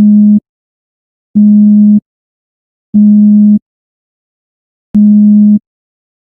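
A low-pitched steady tone played four times, each note lasting just over half a second, with short silent gaps between them. It is used as an example of a low-pitch sound.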